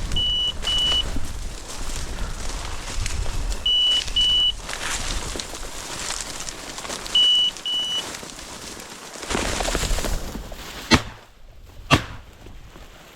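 A dog's beeper collar giving short, high double beeps every three and a half seconds or so, the rhythm beeper collars use when the dog stands on point. Near the end come two sharp shotgun blasts about a second apart.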